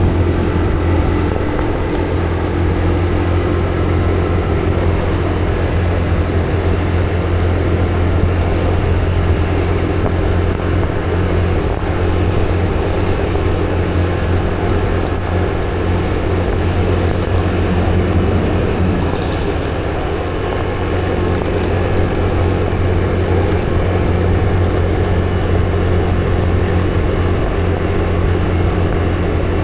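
Vehicle engine running steadily at cruising speed: an even low drone with road noise and no changes in pace.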